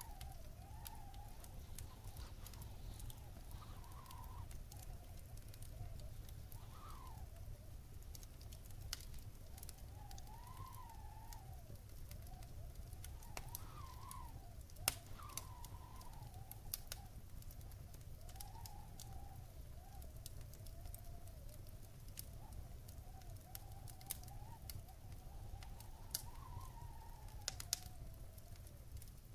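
Wood fire burning in a fireplace: a steady low rumble of flames with scattered sharp crackles and pops, the loudest about halfway through. A faint wavering whistle drifts up and down beneath it.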